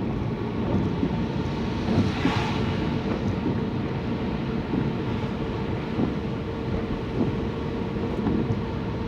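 Steady low rumble of a car driving on wet roads, heard from inside the cabin, with a brief hiss about two seconds in.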